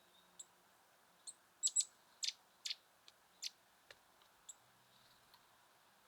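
Small songbirds giving short, sharp, high-pitched call notes, about a dozen in an irregular run, loudest in the first half.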